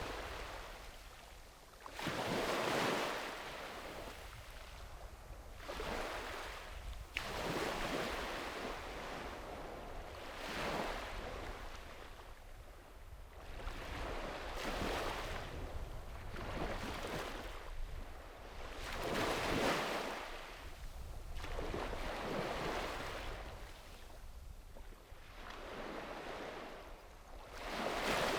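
Sea waves breaking and washing onto the shore one after another, each swelling and fading every two to four seconds, over a steady low rumble.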